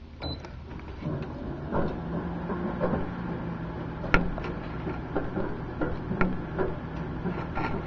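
Microwave oven running: a steady hum comes on about a second in, with scattered clicks and ticks from the markers heating inside, which have not yet burst.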